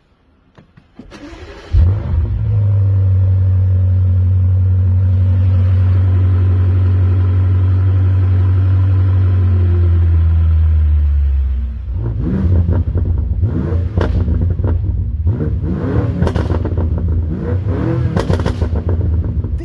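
BMW M5 F90's twin-turbo 4.4-litre V8 cold-starting: a brief crank, then the engine catches with a loud flare about two seconds in and settles into a steady, high cold idle that slowly drops. From about twelve seconds it is blipped in repeated revs, with sharp exhaust pops and bangs as the revs fall.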